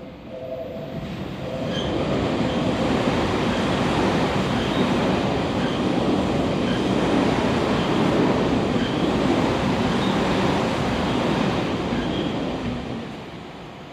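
Tobu 50070-series train passing through a station at speed without stopping: a steady rush of wheel and running noise that builds over the first two seconds, holds for about ten seconds, then fades near the end, with faint high wheel squeals over it. A steady two-note tone fades out about a second and a half in.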